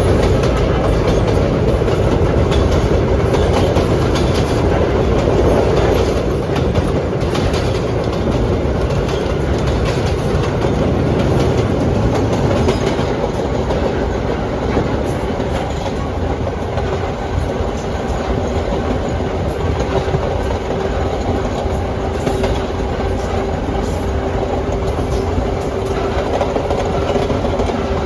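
Vintage R1/9 'Arnine' subway cars running along the track: a steady rumble with wheels clacking over rail joints. A steady tone joins the rumble in the last few seconds.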